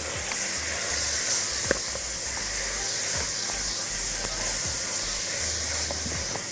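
Chicken livers and onions sizzling steadily in hot oil in a pot, stirred with a silicone spatula, with a few faint taps and scrapes against the pot.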